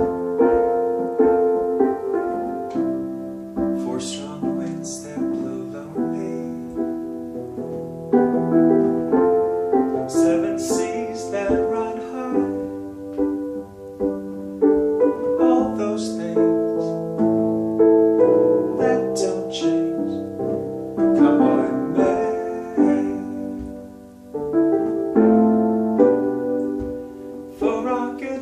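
Piano playing a slow tune in chords, each struck chord ringing and fading before the next.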